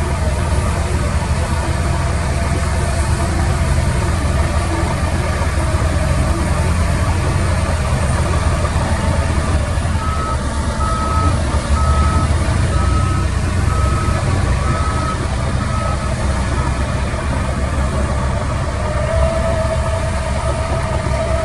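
Heavy diesel construction vehicle running steadily under load. Partway through, its reversing alarm beeps about once a second, seven times. A steady whine comes in near the end.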